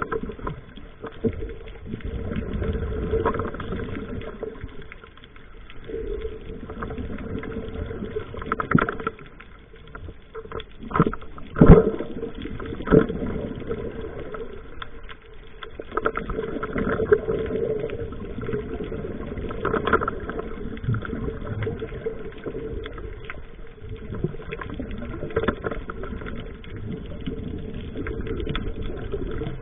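Sea waves washing in and out, the surf swelling and easing every few seconds, with a few sharp thumps, the loudest about twelve seconds in.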